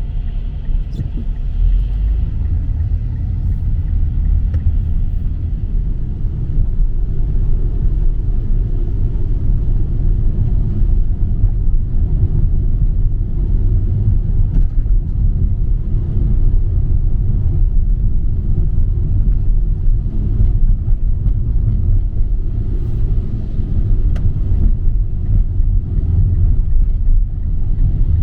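Steady low rumble with no clear rhythm, its energy mostly in the bass, with a few faint clicks.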